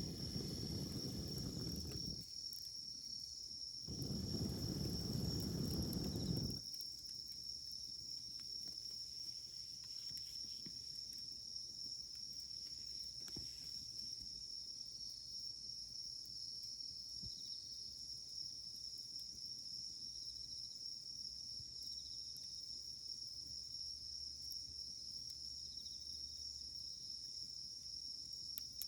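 Wood campfire burning with faint scattered crackles under a steady high insect trill. Two spells of low rumbling noise come in the first six seconds.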